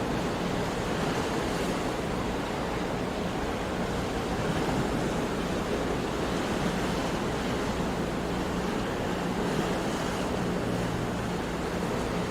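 Sea waves washing onto a shore in a steady wash, gently swelling and easing, with some wind on the microphone.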